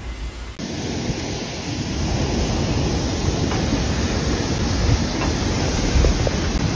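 Faint storm hiss, then from about half a second in a louder, steady rush of heavy rain and water on a flooded street, with a low thump near the end.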